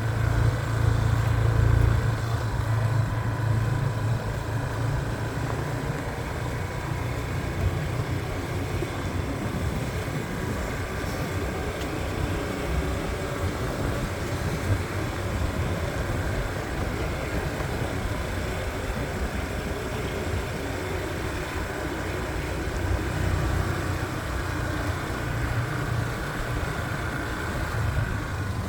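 Motorbike engine running steadily as the bike is ridden along, with rumble from the ride; the engine note is strongest in the first couple of seconds.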